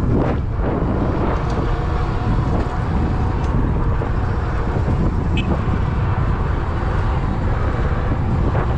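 Wind buffeting the microphone over steady vehicle noise while riding.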